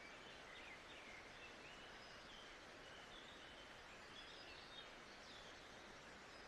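Faint nature-sounds ambience: a steady hiss with scattered distant bird chirps.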